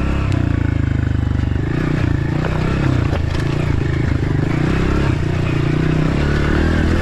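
Dirt bike engine running in first gear on a trail, its pitch rising and falling as the throttle is opened and closed, with scattered knocks.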